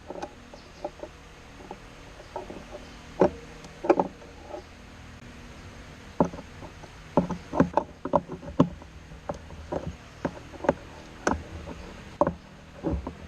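Irregular clicks and light knocks of hand tools and metal and plastic parts being handled during car repair work, a few of them sharper and louder, over a faint steady background.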